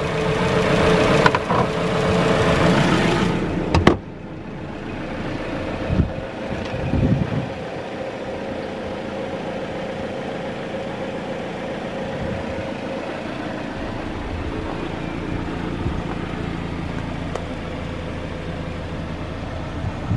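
2015 Dodge Dart's 2.4-litre four-cylinder engine idling steadily. It is loud and close for the first few seconds, then drops off suddenly and runs on more faintly, with a couple of knocks near the middle.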